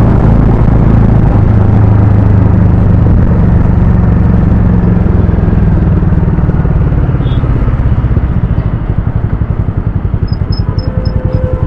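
Harley-Davidson X440's single-cylinder engine and exhaust running loud and steady under way, then from about eight seconds in easing to a slower, pulsing beat as the throttle is backed off. A faint horn tone comes in near the end.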